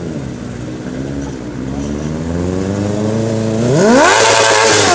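Sport motorcycle engine accelerating. Its pitch climbs slowly at first, then near the end the revs shoot up sharply and it gets much louder.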